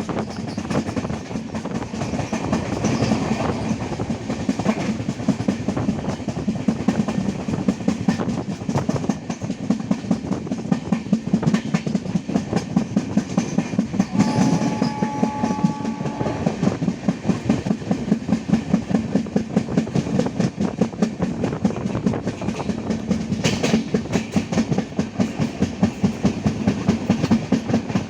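Indian Railways passenger train running along the track, heard from on board: a fast, steady clickety-clack of wheels over rail joints with a running rumble. About halfway through, a distant two-tone horn sounds briefly.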